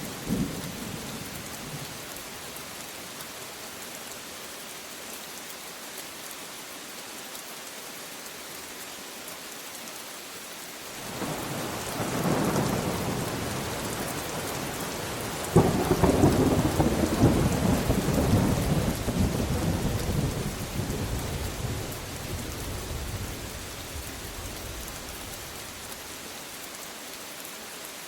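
Steady rain falling, with thunder: the tail of a rumble fades in the first couple of seconds, then about a third of the way through a low rumble builds, followed by a louder, sharper thunderclap that rolls on for several seconds and fades out.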